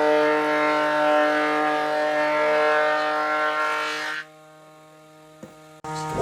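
Electric power tool motor running at a steady speed with a constant whine, cutting off abruptly about four seconds in; a single click follows shortly before the end.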